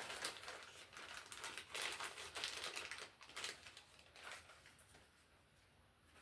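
Small plastic parts clicking and rattling with crinkly rustling as a bag of MC cable anti-short bushings is handled. The sound fades out after about four seconds.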